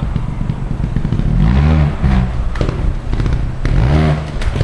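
Trials motorcycle engine blipped hard twice, about two seconds apart, each time rising in pitch and falling back, as the bike climbs through a rocky section. There are a few knocks in between.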